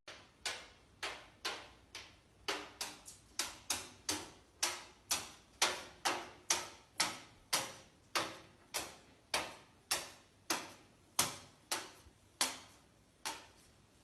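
A steady series of sharp taps, about two a second, each fading quickly.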